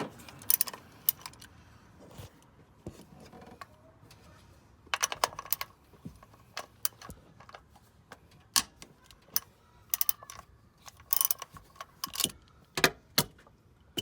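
Metal hand tools clinking and rattling as they are handled, in scattered clicks and small clusters of jangling, with a brief ringing after some of the knocks.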